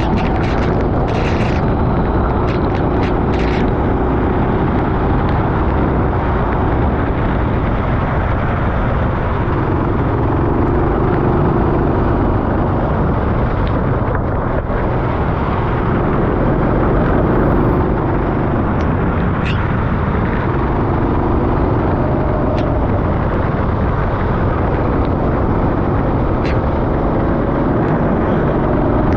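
Rental kart engine running at race pace, its note rising and falling as it speeds up and slows for corners, over a steady loud rushing noise.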